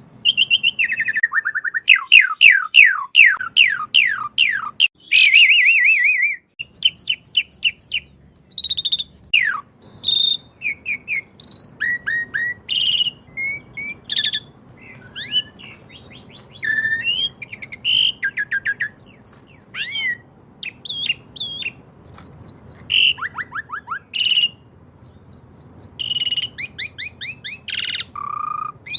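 Asian pied starling (jalak suren) singing a fast, varied song of whistles, chirps and rapid sweeping trills, over a faint steady wash of running water.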